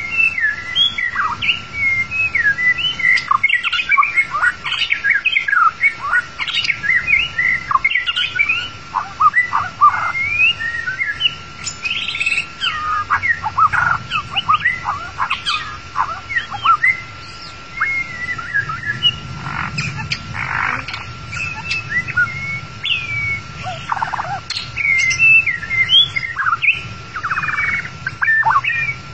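White-rumped shama singing a fast, continuous, varied song of whistled notes, slurs and chirps, with a few harsh rasping notes in the second half. A faint steady high tone runs underneath.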